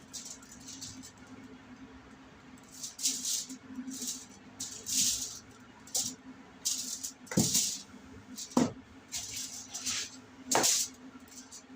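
A knife cutting and scraping raw chicken meat off the bones: a run of irregular short scrapes, with three sharper knocks in the second half.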